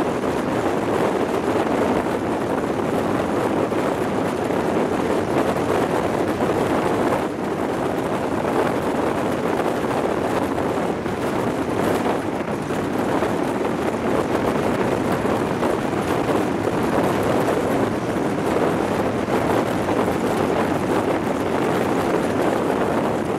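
Steady rush of wind over a microphone held out of a High Speed Train's window at speed, with the train's running noise blended in underneath.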